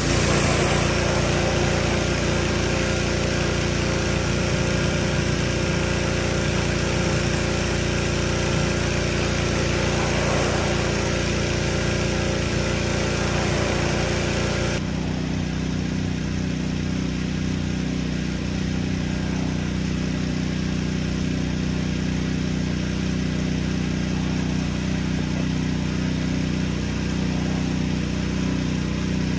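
An engine running steadily. A loud hiss, typical of a pressure-washer spray, lies over it for the first half and cuts off suddenly about halfway through.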